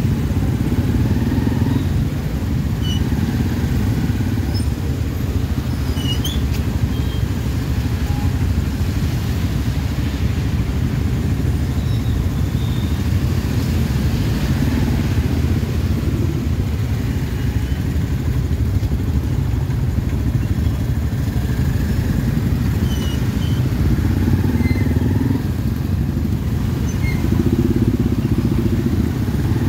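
Motorcycle riding in slow city traffic: a steady low rumble, with a few faint short high-pitched chirps now and then.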